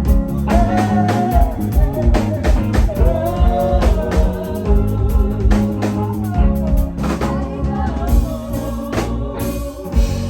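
Live rock band of drums, bass, guitar and keyboard playing with sung vocals, ending on a loud hit near the end that leaves a chord ringing.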